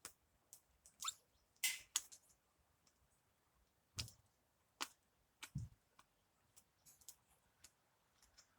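Feathers being pulled by hand from a freshly killed chicken: a string of short, quiet rips and rustles at irregular gaps, about a dozen in all.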